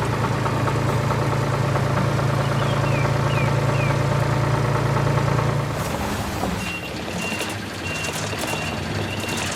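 A heavy vehicle engine running with a steady low hum, then a reversing alarm beeping again and again in the later part, over a rougher engine sound. A few faint bird chirps are heard in the middle.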